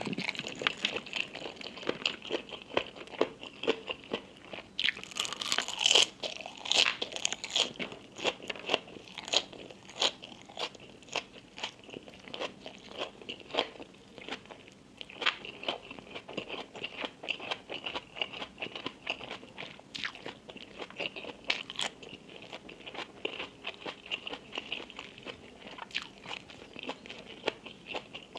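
A person biting and chewing crunchy food close to the microphone, a steady run of irregular crunches that is busiest about six seconds in.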